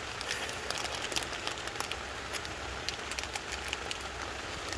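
Small metal fittings and a socket adapter for an IPR valve pressure test being handled and fitted together: scattered light clicks and ticks over a steady hiss.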